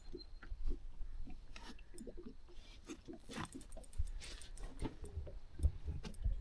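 Faint, irregular small clicks, taps and low thumps with some rustling: close handling noise.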